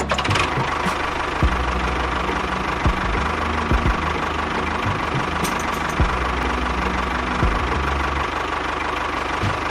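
A small motor running steadily with a constant whine, with a few short knocks now and then.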